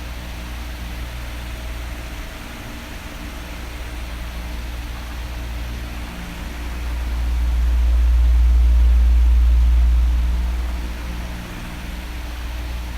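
Electric fan running: a steady airflow hiss over a faint motor hum. A low rumble swells up about halfway through and dies away near the end, as the oscillating fan turns its airflow toward and then away from the microphone.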